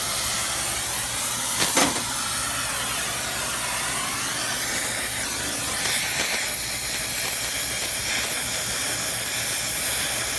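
Brazing torch flame hissing steadily while the old compressor's open stubs are sealed shut, with a short click about two seconds in.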